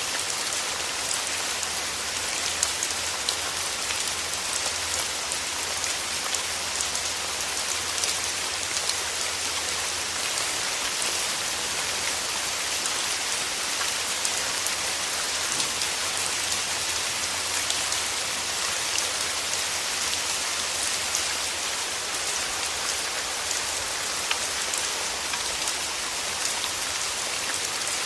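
Steady rain falling on a surface, a dense even hiss with many small drop ticks and no letup.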